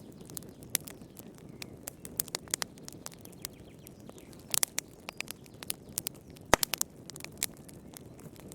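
Wood fire crackling in a fireplace: irregular sharp pops and snaps over a soft low rumble of the flames, with a quick cluster of pops about halfway through and one loud pop soon after.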